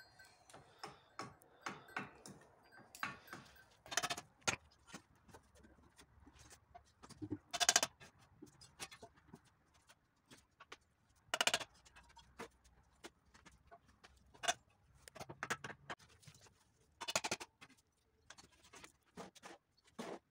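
Bricklaying work: irregular knocks and taps of a trowel and bricks, with a few louder, longer scraping strokes spread through it.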